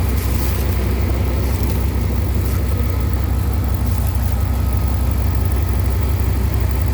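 1997 Dodge Ram 1500's 5.9-litre (360) V8 idling steadily with a fine, even pulse. The engine has about 307,000 miles on it and runs pretty good.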